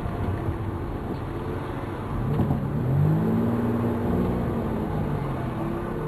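Turbocharged 2004 Hyundai Tiburon on the move, its engine note rising in pitch about two seconds in as the car accelerates, then holding steady over road noise.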